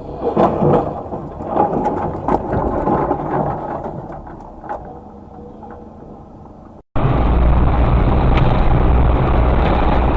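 A car collision: a string of bangs and crunching knocks over the first few seconds, thinning out. After a sudden cut about seven seconds in comes a steady engine and road drone from inside a vehicle.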